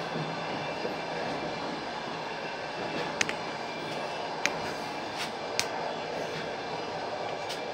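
Passenger train running on the rails: a steady rumble of the wheels, with sharp clicks roughly once a second in the second half.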